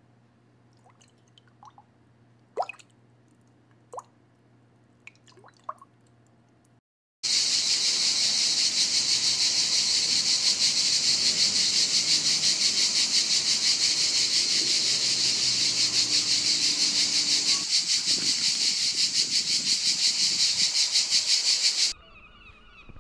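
A loud, steady, high hiss-like buzz from a small marsupial, with a very fast pulse to it, starting about seven seconds in and cutting off suddenly near the end. Before it there is only a faint hum with a few short squeaks.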